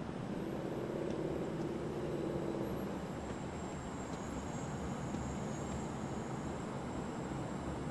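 A train running away down the track: a steady low rumble, with a faint whine over the first two or three seconds.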